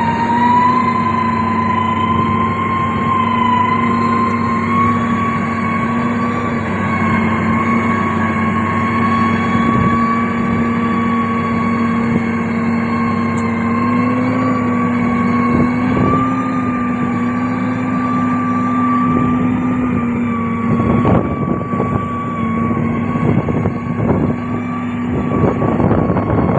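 Heavy road-construction machinery running steadily, a diesel engine drone with a constant whine over it. Clanks and rattles come in over the last several seconds.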